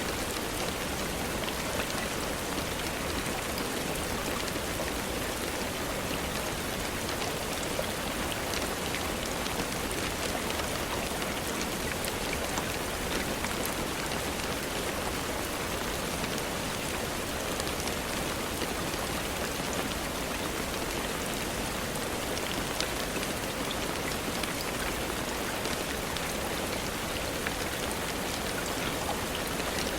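Steady rain falling, with many separate drops pattering on a surface over an even hiss.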